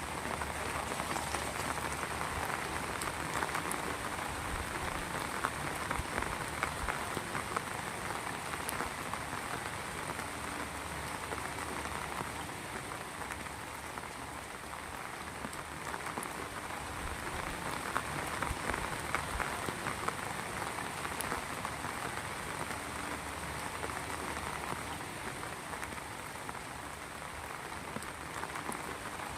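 Heavy rain falling steadily, a dense, even hiss dotted with the ticks of many individual drops striking a surface.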